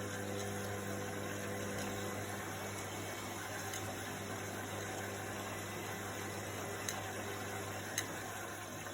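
Washing machine running: a steady motor hum with water swishing, and two short clicks about a second apart near the end.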